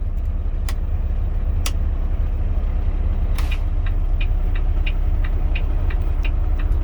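Semi-truck diesel engine idling with a steady low rumble, its air pressure built up. A few sharp clicks sound in the first seconds, and light clicks at about three a second start about four seconds in.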